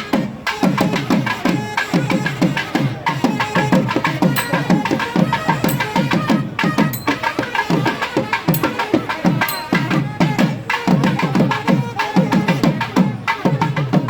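Traditional procession music carried by fast, steady drumming, about three strokes a second, each stroke dropping in pitch, with other instruments playing over it.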